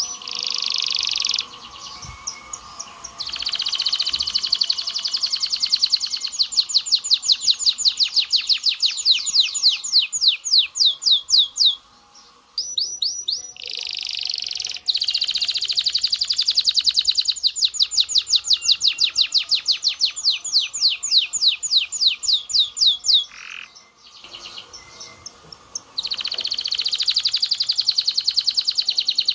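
Domestic canary singing: long rolling trills of fast repeated notes, with a brief pause twice between song phrases.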